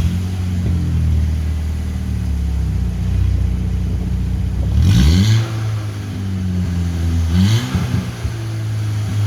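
A Volkswagen Mk5 Golf GTI's turbocharged 2.0-litre four-cylinder engine running at a steady note, then revved sharply about five seconds in and again briefly near 7.5 seconds. Each rise comes with a burst of hissing exhaust noise, and another rev begins at the very end.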